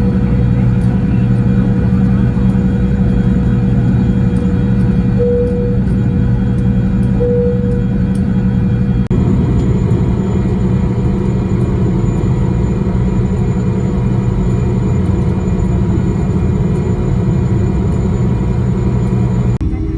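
A vehicle engine running steadily: a constant low drone with a fixed whine over it, cut off abruptly near the end.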